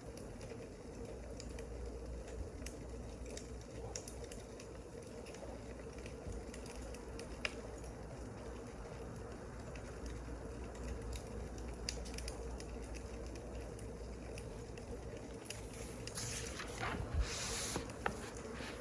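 Wood fire crackling, with scattered sharp pops over a steady low rumble. There is a louder rustling hiss about sixteen seconds in.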